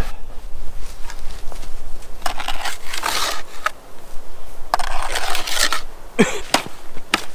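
Crust of ice and snow in a frozen-over horse water trough being crunched and broken up to reach the water: several grinding crunches, then a few sharp knocks near the end.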